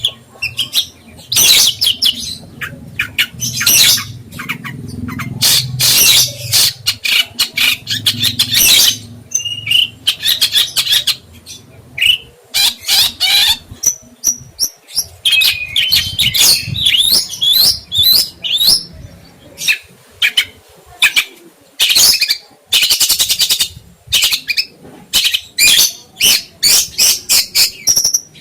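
A songbird singing loudly in rapid bursts of sharp chirps, trills and harsh notes, with short pauses between phrases.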